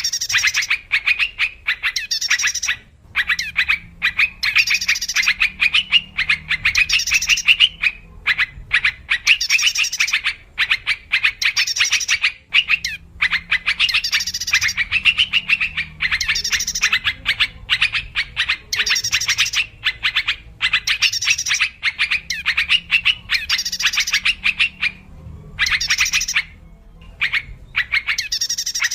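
Sooty-headed bulbul calling: rapid, bubbly chattering phrases with sharper high notes mixed in, nearly continuous and broken only by short pauses, about three seconds in, around eight and thirteen seconds, and near the end.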